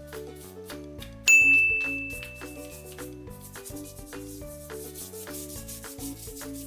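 A brush scrubbing a toy animal with repeated rubbing strokes, over light background music. About a second in, a single bright ding rings out and fades over about two seconds.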